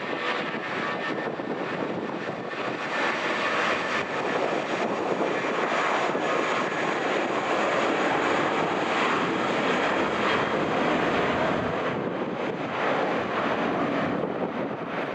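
Jet engines of an Airbus A320-232, its IAE V2500 turbofans, give a steady rushing noise with a faint whine in the first few seconds. The noise swells slightly about halfway through and eases toward the end.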